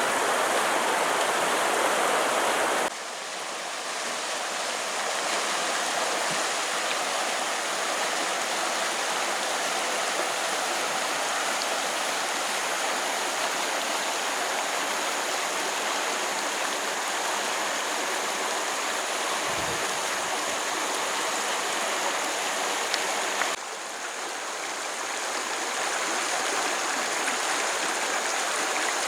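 Stream water rushing and flowing steadily. The sound changes abruptly twice, about three seconds in and again near the end, as if one recording is cut into another.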